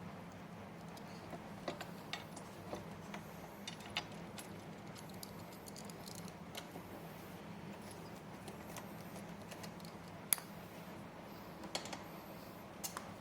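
Scattered small clicks and rattles of metal hardware and tools being handled during gaming-chair assembly, the sharpest about ten seconds in, over a steady low hum.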